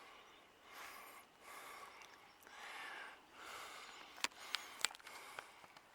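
A person's breathing close to the microphone, soft in-and-out breaths every second or so, with a few sharp clicks about four to five seconds in.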